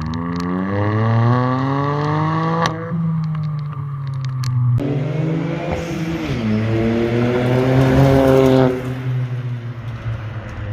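Ford Fiesta Mk8 ST-Line engine revving through its exhaust, the pitch rising over a couple of seconds and then holding. After an abrupt cut it is revved again, climbing, and released near the end.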